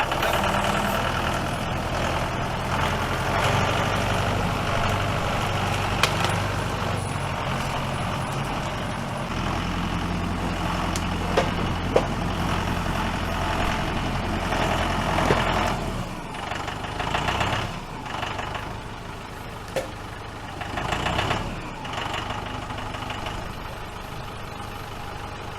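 Tractor engine running steadily, its note easing off about sixteen seconds in, with a few sharp knocks along the way.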